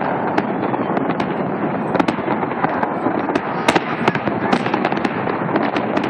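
Fireworks salute going off: a dense, continuous crackle with sharp bangs standing out every half second to a second or so.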